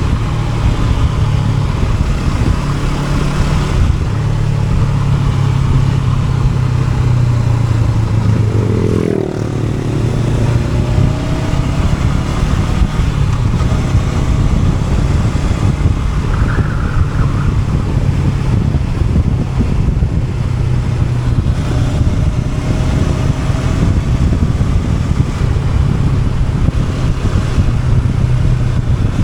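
Honda NX500's 471 cc parallel-twin engine running steadily under way, with a brief drop and change in engine note about nine seconds in.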